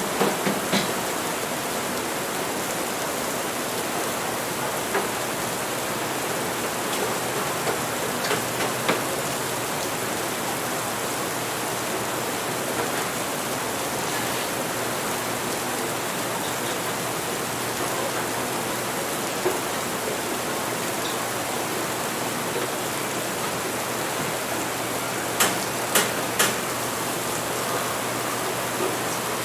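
Steady rain hiss layered with coffee-shop background, broken by a few short sharp clinks of crockery, three of them close together near the end.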